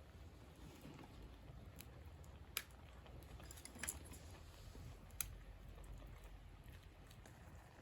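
Faint wood campfire crackle: three sharp pops about a second and a half apart over a low steady rumble.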